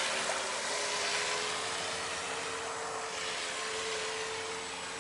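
Electric RC v-hull boat's brushless motor running at cruising speed: a steady whine over the hiss of water off the hull, slowly fading.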